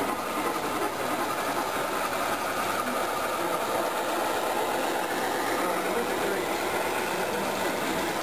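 Model train running steadily along its track, a continuous mechanical running sound.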